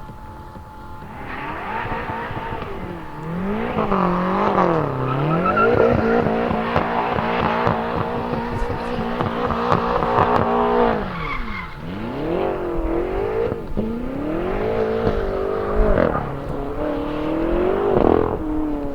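BMW car engine revving hard, its pitch climbing and falling repeatedly and held high for several seconds in the middle before dropping and rising again.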